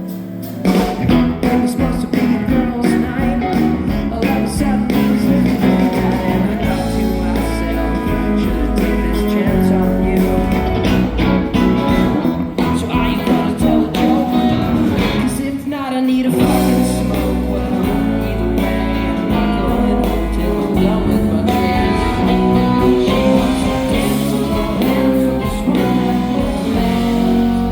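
Live band playing with guitar, bass and drums; the full band comes in about half a second in, with a short drop in the middle before it picks up again.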